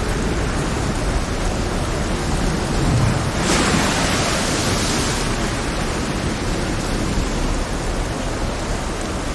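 Heavy rain over a rough sea: a steady rushing hiss with a deep rumble underneath. About three and a half seconds in, a louder hissing surge swells and fades within a second or two.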